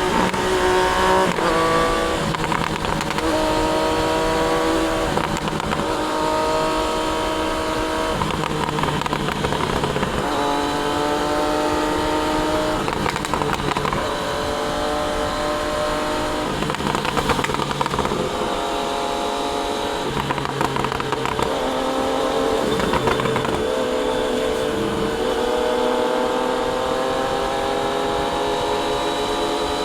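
Triumph Daytona 660's inline three-cylinder engine running on the move, its pitch jumping up and down every second or two with throttle and gear changes. It rises steadily over the last few seconds as it accelerates.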